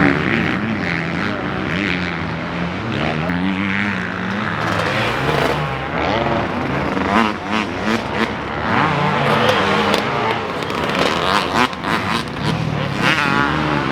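Several motocross dirt bikes racing on the track, their engines revving up and down in pitch as they pass.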